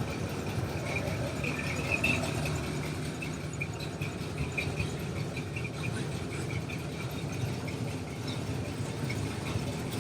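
Vehicle engines running steadily, with a faint high chirping or whining layered over the low rumble.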